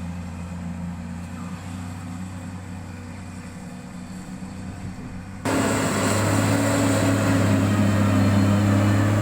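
Heavy road-construction equipment's diesel engine running steadily with a low drone. About five and a half seconds in, the sound jumps suddenly to a much louder, harsher level and holds there.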